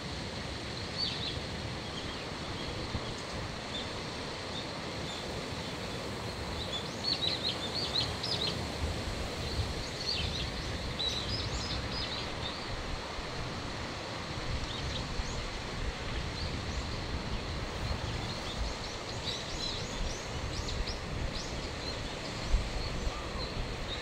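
Small birds chirping: short, high calls coming in scattered clusters, over a steady outdoor rumble and hiss.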